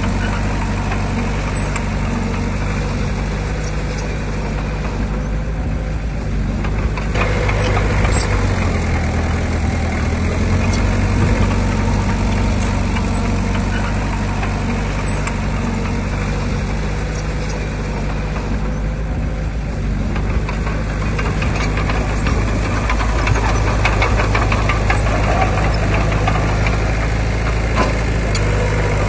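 Heavy diesel engine of earthmoving equipment running steadily under load, its note shifting a few seconds in, with scattered metallic clanks in the second half.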